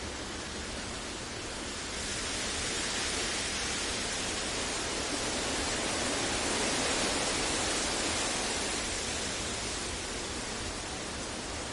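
Generated noise: a continuous even rushing hiss with no tones or events, swelling gently louder a couple of seconds in and easing back over the last few seconds.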